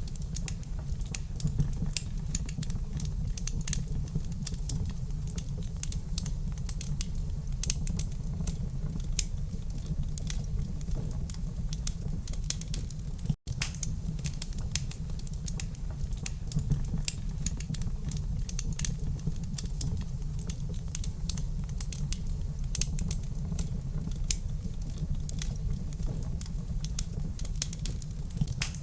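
Wood fire crackling in a fireplace: a steady low rumble under many quick, irregular pops and snaps. The sound cuts out for an instant about halfway through.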